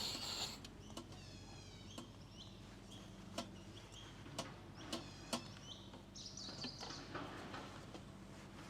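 Birds chirping in woodland in quick runs of falling notes, with several sharp clicks and knocks scattered through, over a faint steady low hum.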